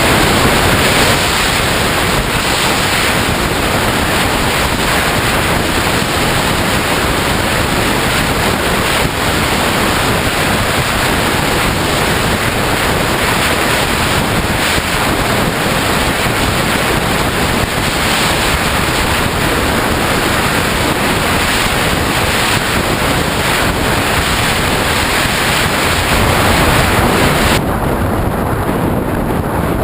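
Loud, steady wind rush buffeting the microphone. Near the end the hiss suddenly thins out at the top.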